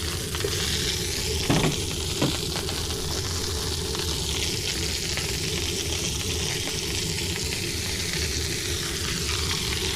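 Smash burgers and hash browns frying with a steady sizzle, over a steady low hum. Two short knocks come about a second and a half and two seconds in.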